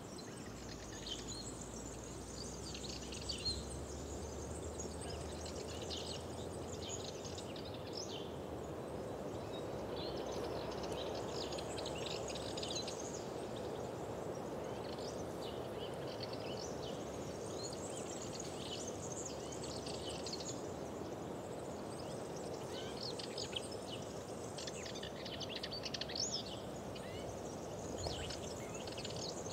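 Small birds chirping and singing in quick, high twittering phrases, with several calling at once, over a steady low rushing background that swells a little in the middle.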